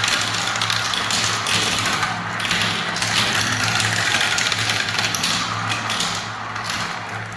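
Marbles rolling and clattering down a spiral marble-run track: a dense, continuous patter of small clicks, with a steady low hum underneath.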